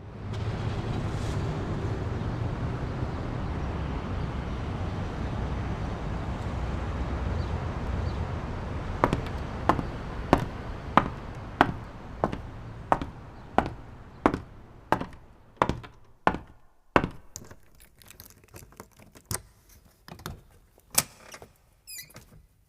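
Low rumbling noise for about nine seconds, then a run of sharp knocks, about one and a half a second, that thin out and become irregular near the end.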